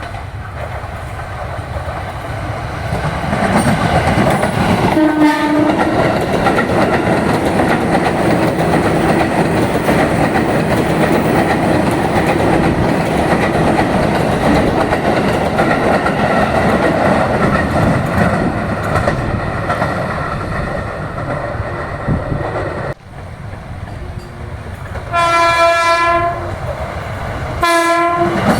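JR 205-series electric commuter trains: one gives a short horn blast about five seconds in, then runs past with a long, steady rumble of wheels on the rails. After a cut, a second one sounds its horn twice near the end.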